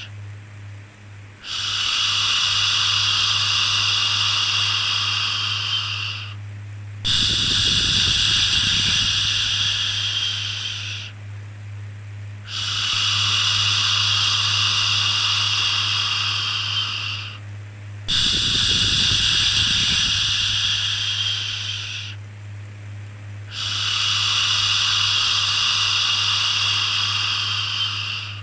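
Repeated long 'shhh' shushing, five in a row, each held steadily for about four to five seconds with a brief pause between, over a constant low hum.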